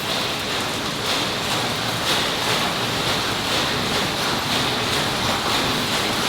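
Steady industrial noise of precast concrete plant machinery: a continuous hiss-like wash with a high edge and faint irregular clicks, no single machine standing out.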